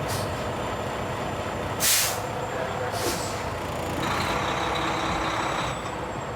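Heavy truck idling with a steady low rumble, broken by short sharp hisses of air from its air brakes; the loudest hiss comes about two seconds in. From about four seconds in the engine noise swells for nearly two seconds.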